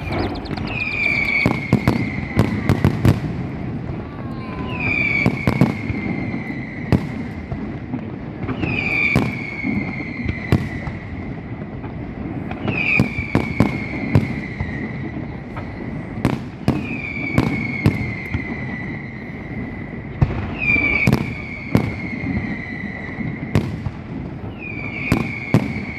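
Fireworks display: a dense run of sharp firecracker cracks over a constant low rumble of bursts. A high whistle that sinks slightly in pitch recurs about every four seconds.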